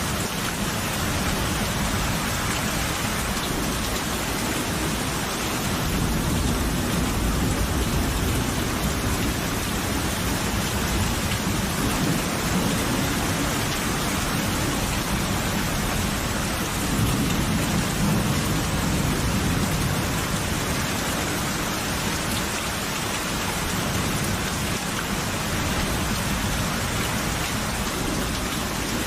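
Steady heavy rain falling, with low rolling thunder swelling up twice and fading.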